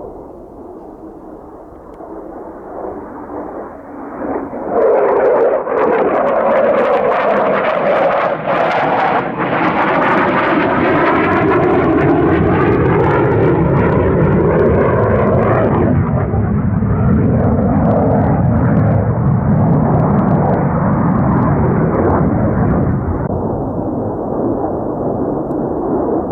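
Jet noise from an F-35A Lightning II's single Pratt & Whitney F135 engine as it flies past. The sound builds over the first few seconds to a loud, steady jet noise whose tone sweeps up and down, changes abruptly about two-thirds of the way through, and stays loud.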